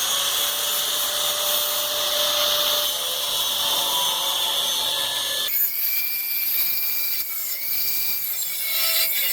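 Small angle grinder cutting the iron centre of a steel wheel, a loud steady rasp of the disc on metal over the motor's whine. About five and a half seconds in the sound changes abruptly as the disc's bite on the metal changes.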